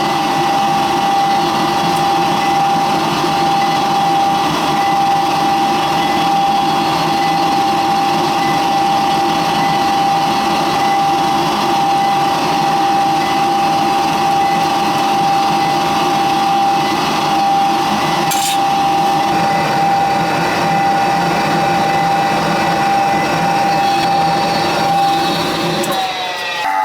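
York 90+ gas furnace running: a loud, steady high motor whine over a hum. About a second before the end the whine drops in pitch as the motor winds down.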